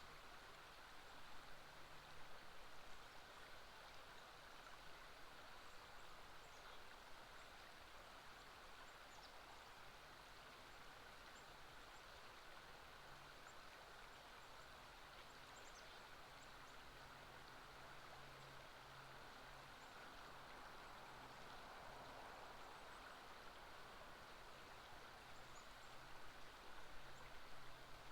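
Faint, steady rush of flowing river water, with a faint low hum that comes and goes.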